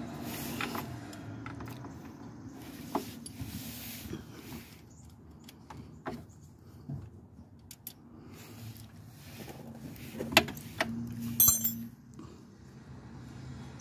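Metal hand tools clicking and clanking on car parts while bolts are worked loose, with a few sharp, ringing metallic hits near the end.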